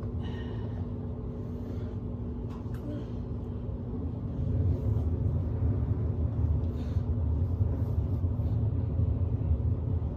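Steady low rumble with a steady hum over it, growing louder about four seconds in.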